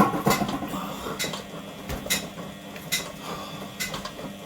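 Front-loading washing machine running its wash cycle with its back and top covers off: a steady motor hum with sharp metallic clinks coming regularly, a little under a second apart.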